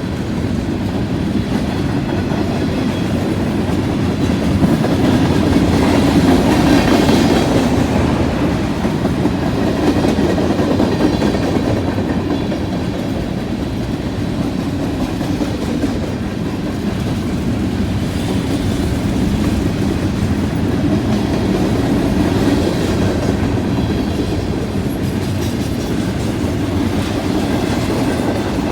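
CN Train 399's freight cars rolling past on the rails: a steady noise of wheels on track that swells and eases a few times.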